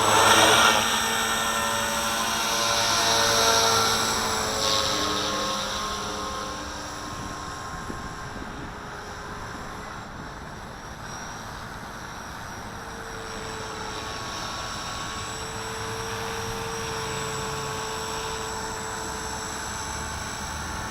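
Walkera V450D01 electric RC helicopter's motor and rotor whining in a hover, the pitch shifting as it is buffeted by gusty wind. It is loudest in the first few seconds, then settles lower and steadier.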